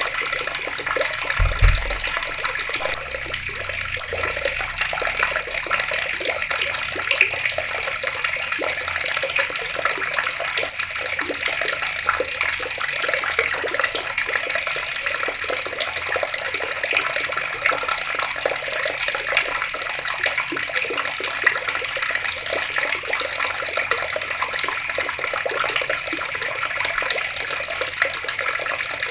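Outdoor water tap running in a steady stream, water splashing evenly, with a brief low thump about a second and a half in.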